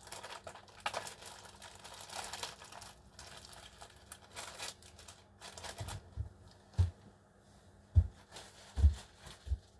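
Crinkly material being handled, rustling and tearing, then four dull knocks in the last few seconds.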